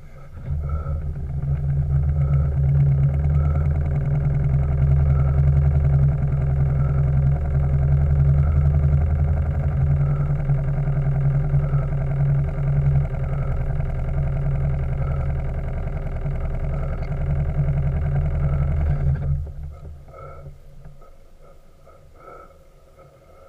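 Steam launch's engine and gas-fired boiler running with a steady low rumble, which cuts off suddenly about nineteen seconds in, leaving only a faint ticking about once a second.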